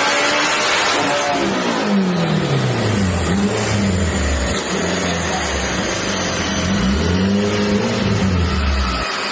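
Car engine revving, its pitch sweeping down and back up several times.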